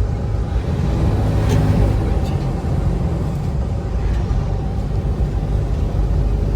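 Steady road and engine noise inside a moving car's cabin, a low rumble with a brief click about a second and a half in.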